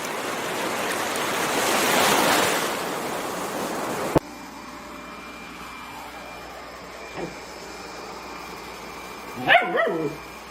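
A rushing noise swells and then cuts off abruptly about four seconds in. Near the end, a dog gives a short, high yelping call that falls in pitch.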